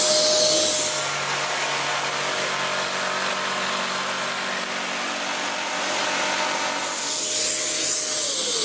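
A power tool working wood, with a Kärcher wet-and-dry vacuum plugged into it running steadily to extract the dust. Near the end a motor winds down with a falling whine.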